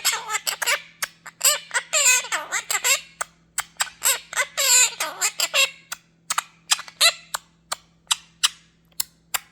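Quaker parrot chattering and squawking in rapid warbling bursts for the first six seconds, then a string of short sharp clicks near the end.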